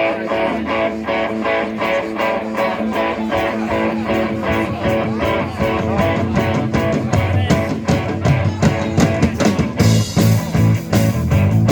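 Live rock band music: a guitar plays a repeated, evenly pulsed figure, with lower notes joining about seven seconds in and a fuller, louder band sound coming in near the end.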